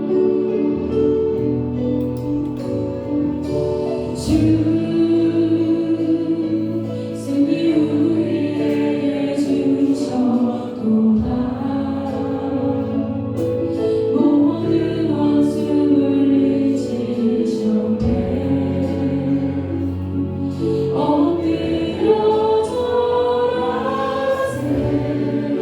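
Praise-and-worship music: voices singing together over steady instrumental accompaniment.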